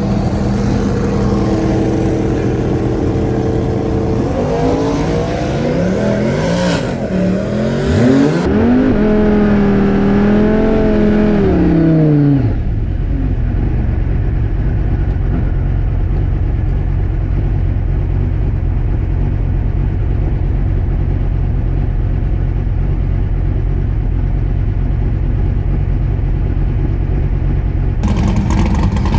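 Drag-race car engine running, then revved up and down several times from about four seconds in. From about twelve seconds in, it gives way to a steady low drone with the higher sounds cut off.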